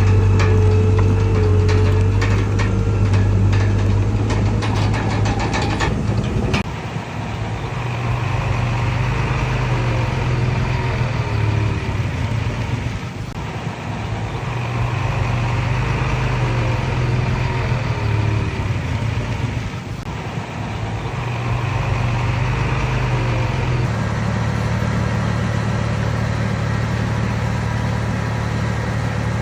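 Komatsu D31PX bulldozer's diesel engine running steadily, its note changing about a quarter of the way in and again near the end, with short repeated squeaks from the machine in between.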